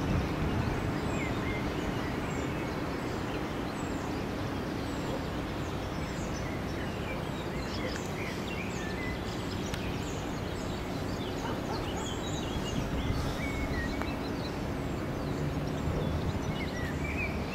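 Birds singing, many short high chirps scattered throughout, over a steady background of noise and a low hum.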